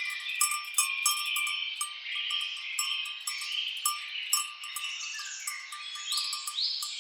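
Several birds chirping and whistling over one another, with irregular metallic clinks of bells worn by grazing cattle.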